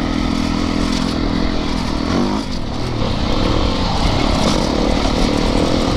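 Yamaha YZ450FX single-cylinder four-stroke dirt bike engine running under throttle over whoops. Its pitch drops and rises a few times as the throttle is worked.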